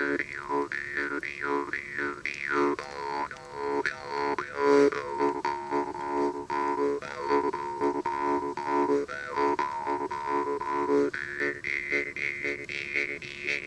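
Jaw harp (vargan) playing: a steady drone struck in quick rhythmic plucks, with an overtone sliding up and down to make a wavering melody. About eleven seconds in, the melody settles onto a higher held overtone.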